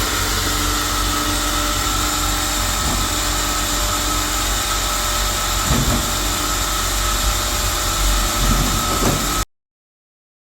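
Loud machinery running steadily with a high whine and a few knocks, cutting off suddenly near the end.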